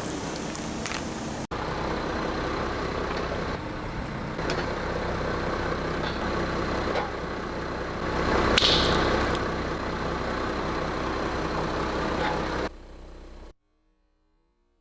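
Car engine running with steady tyre noise, and a louder crunch about eight and a half seconds in as the tyre goes over something. The sound cuts off abruptly near the end.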